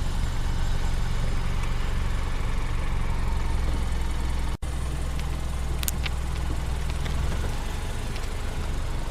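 Isuzu tow truck's diesel engine running steadily, with a momentary break in the sound about four and a half seconds in.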